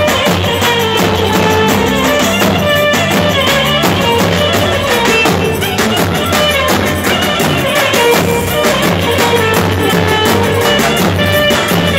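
Loud Turkish wedding dance music played by a band, with a steady drum beat under a wavering melody line.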